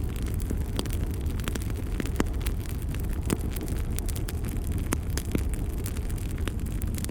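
Fire burning in a fireplace: a steady low roar with frequent irregular crackles and sharp pops.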